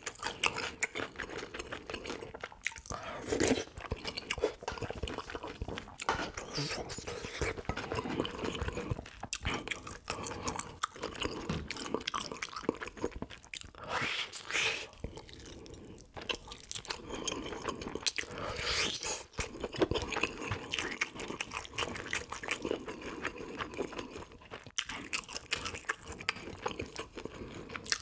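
Close-miked chewing and crunching of grilled salted yellow croaker (gulbi) eaten whole, skin and bones included, with stretches of softer chewing between bites.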